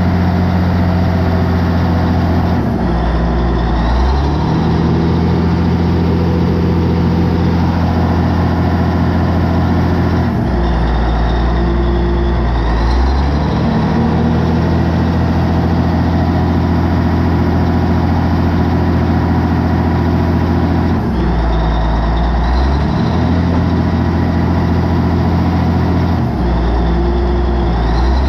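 Caterpillar D8N bulldozer's diesel engine running hard. Its low note sags and recovers about four times, with a high whistle rising and falling each time, as the machine is put in forward and tries to move but does not drive properly, which the owner thinks may be a hydraulic problem.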